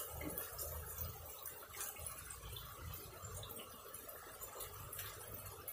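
Steady summer rain falling: an even hiss with a few sharper drips.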